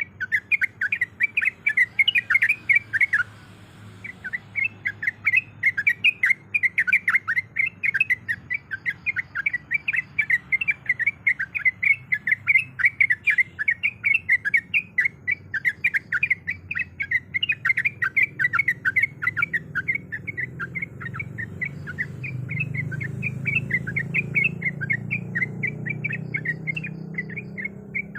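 Yellow-vented bulbul (trucuk) calling in a rapid, continuous chatter of short notes, with a brief break about three and a half seconds in. A low background hum swells in the second half.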